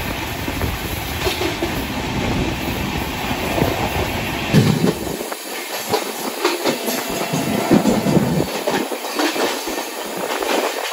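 Gatimaan Express coaches running at about 160 km/h: a loud, steady rush of wheels on rails with fast clickety-clack clatter. The deep rumble mostly drops away about five seconds in.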